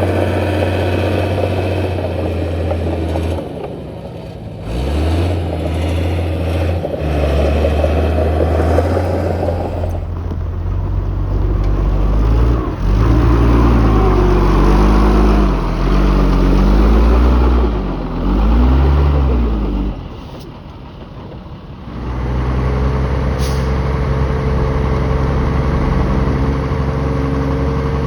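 Heavy diesel engines of earthmoving machinery running. In the middle the engine pitch rises and falls again and again as a machine revs under load, then drops briefly to a quieter lull before a steady run resumes.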